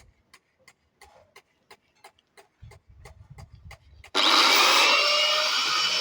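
Faint steady ticking, about three or four ticks a second. About four seconds in, an angle grinder starts suddenly and runs loud with a rising whine.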